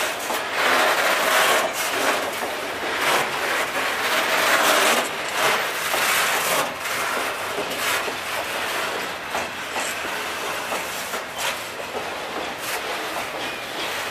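Loaded timber wagons of a freight train rolling past close by: a steady rush of wheel-on-rail noise with irregular clicks as the wheels run over the rail joints.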